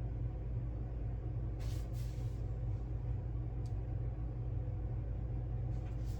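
A steady low hum throughout, with a short soft rustle about two seconds in, a small click near four seconds and another brief rustle near the end.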